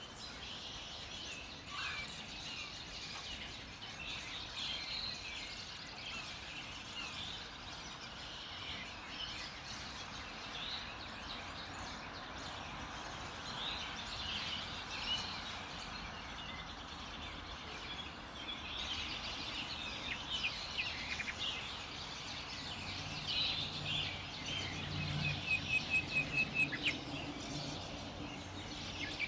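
Many birds singing and chirping together in a morning chorus over a steady background hiss. Near the end one bird gives a fast run of repeated notes, about four a second, over a low steady sound.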